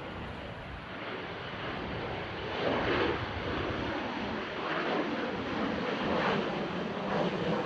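Boeing 737-800 jet engines on approach to land: a broad rush of engine noise that grows louder over the first few seconds and then holds, with strong wind buffeting the microphone in brief gusts.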